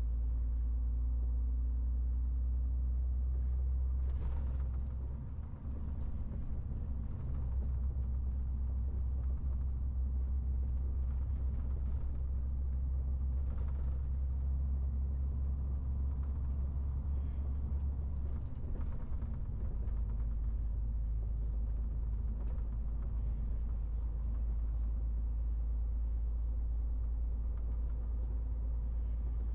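MAN TGX 18.470 truck's six-cylinder diesel engine running on the road, a steady low drone with road noise. The drone dips and changes briefly about five seconds in and again around nineteen seconds in.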